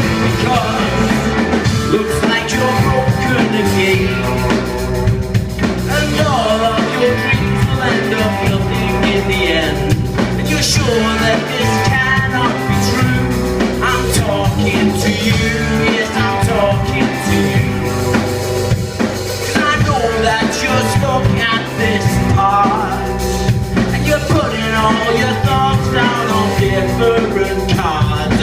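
Live rock band playing loud with a full drum kit keeping the beat.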